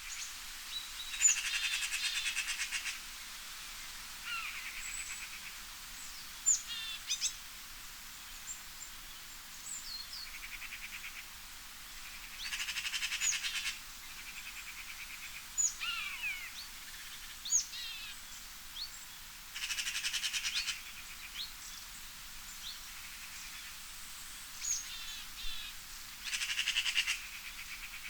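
Forest songbirds singing: one bird repeats a rapid trilled song lasting a second or two about every six or seven seconds, and other birds give short whistled chirps and down-slurred calls in between.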